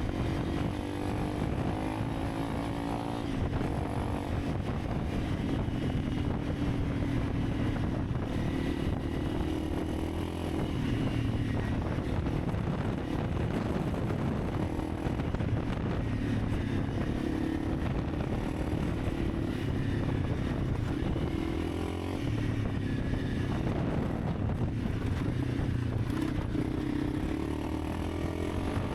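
Honda CRF300 Rally's single-cylinder engine running while the bike is ridden, its pitch rising and falling with the throttle over a constant rush of riding noise.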